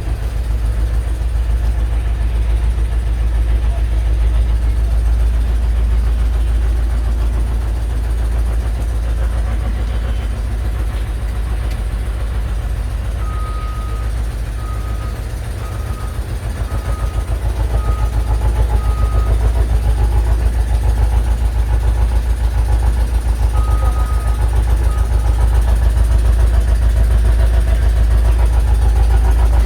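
A heavy diesel engine running steadily with a deep, pulsing rumble. About halfway through, a run of seven short high beeps sounds, and two more follow a few seconds later.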